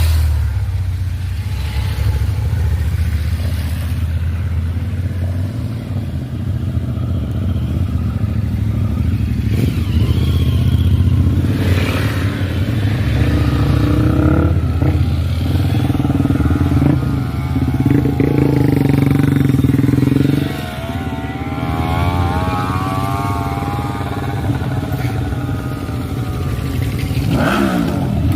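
Motorcycle engines running, with the revs rising and falling several times over a steady low rumble. Near the end one engine sweeps down in pitch.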